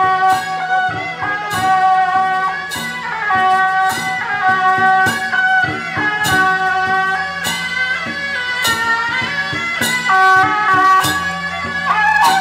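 Traditional procession music: a shrill, reedy wind melody of held notes stepping in pitch, over percussion strikes about every second and a quarter.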